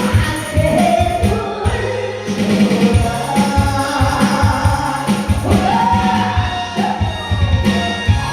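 Pumba stage song: a singer with a gliding voice over loud accompaniment with a steady, regular beat.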